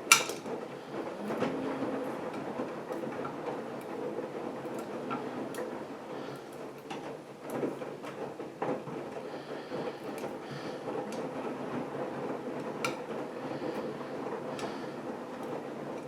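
AEG Lavamat washing machine running a wash, its drum turning: a steady hum with scattered clicks and knocks, a sharp click right at the start.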